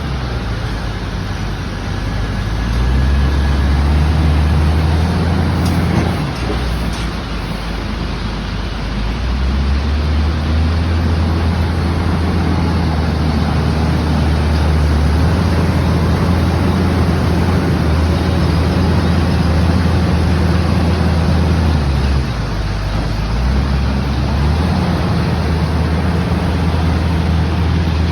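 Heavy diesel engine running, its note rising and easing several times.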